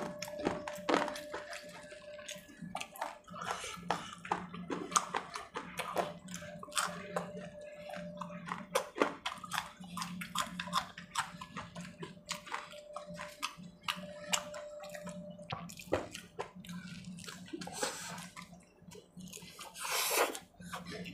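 Close-up eating sounds: chewing and crunching of fried potato pakoras, samosa and raw green chilli, with wet mouth and lip-smacking noises as many short irregular clicks. A faint steady hum runs underneath.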